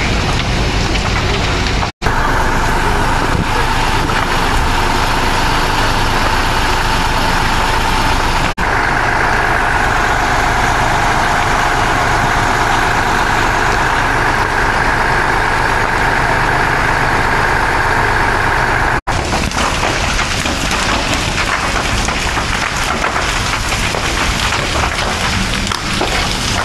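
Fire trucks' engines running at a burning building, a steady whine over a heavy noisy rumble. The sound breaks off for an instant three times.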